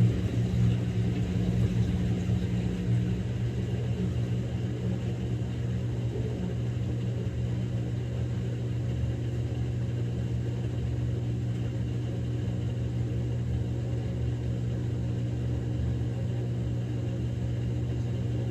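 Samsung Grande washing machine running its quick-wash course with a padded jacket inside: a steady low motor hum and drum rumble.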